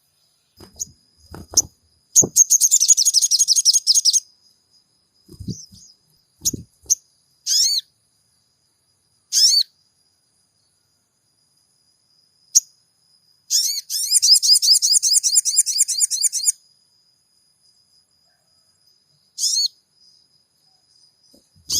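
Sogon songbird singing in short, rapid, high-pitched trills, with single sharp chirps between them. This is the chattering song used as a lure to get caged sogon to sing. A few soft low thumps come in the first few seconds.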